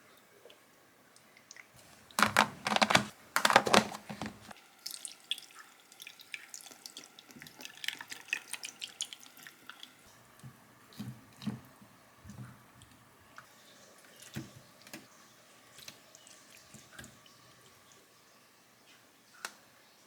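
Kitchen tap running briefly, about two seconds in for a couple of seconds, then small clinks, drips and knocks of kitchen work at the sink.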